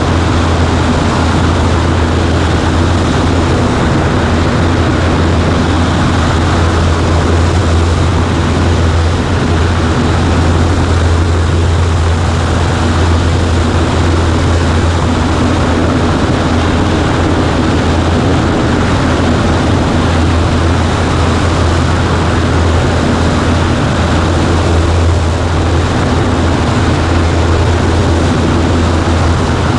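Cessna 140A light airplane's piston engine and propeller running steadily in flight, a loud, even low drone with rushing noise and no change in power.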